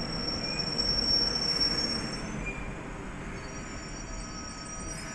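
London Underground Northern Line trains running through the station side by side, a steady rumble with thin, high-pitched wheel squeal over it. It is loudest in the first two seconds and then eases off.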